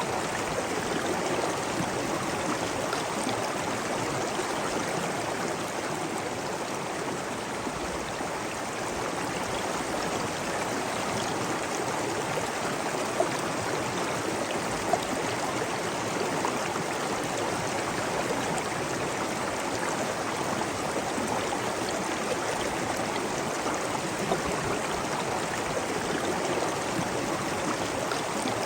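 Steady rushing water, an even flow of a stream or waterfall, with two brief sharp clicks about halfway through.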